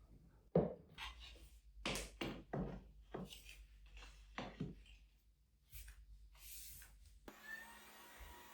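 A series of short rubbing and knocking sounds, like things being wiped and handled during cleaning. Near the end they give way suddenly to a steady hum with a faint high tone.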